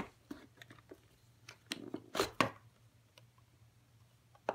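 Plastic clicks and knocks of a robot vacuum's dust bin and filter being handled and fitted back together, with two louder knocks about two seconds in.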